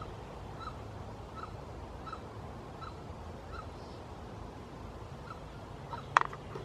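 A bird calling one short, faint note over and over, about once every three-quarters of a second, over a steady low hum. Near the end a single sharp snap, much louder than the calls.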